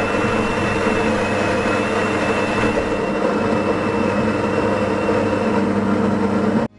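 Coffee machine brewing a cup, its pump running with a steady hum and a high whine. It stops suddenly near the end.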